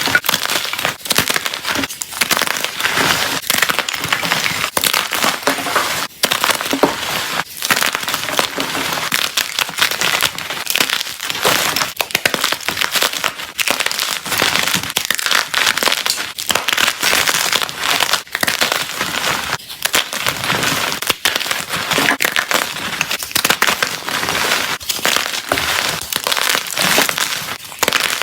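Blocks of gym chalk being crushed, a dense run of crunching and crumbling with many quick sharp crackles.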